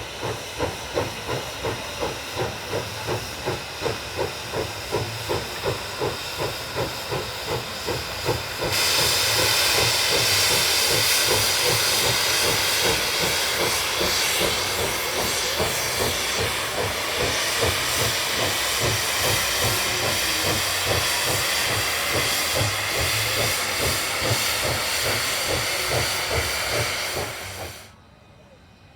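Steam locomotive working steadily, chuffing about three times a second. About nine seconds in, a loud steady hiss of escaping steam starts over the chuffing and runs until the sound cuts off sharply just before the end.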